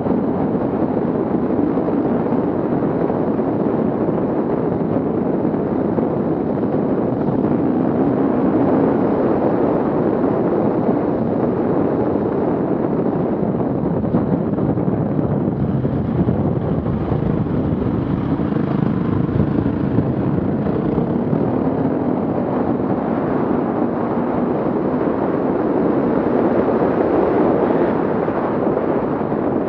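Off-road vehicle engines running, a steady loud rumble mixed with wind on the microphone, with a faint wavering engine tone about halfway through.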